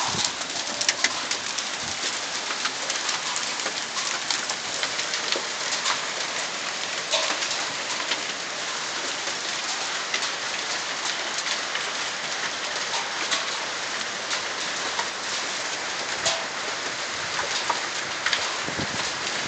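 Large hailstones, about the size of quail eggs, falling hard: a steady dense hiss with many sharp clacks of stones striking hard surfaces.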